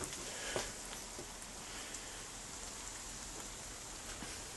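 Steady, quiet patter of rain, with a few faint taps.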